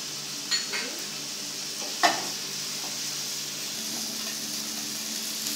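Onion, chicken and shimeji mushrooms sizzling in oil in a frying pan as they are stir-fried with a wooden spatula. Two sharp knocks on the pan, the louder about two seconds in.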